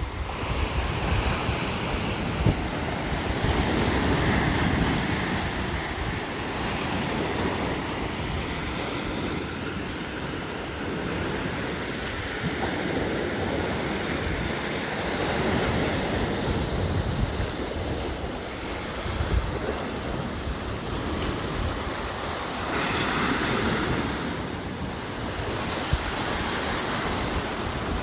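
Steady rushing noise of flowing water, with wind buffeting the microphone in low rumbling gusts.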